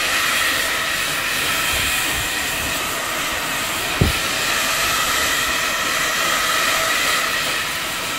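Handheld hair dryer blowing steadily: a loud, even rush of air with a faint whine in it, cutting in suddenly at the start. There is a brief low thump about four seconds in.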